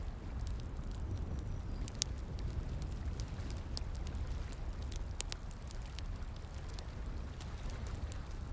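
Campfire crackling, with irregular sharp pops coming a couple of times a second, over a steady low rushing of flowing water.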